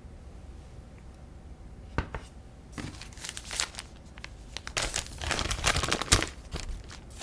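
Food packaging crinkling and being torn open, after a single knock about two seconds in, with a sharp click near the end.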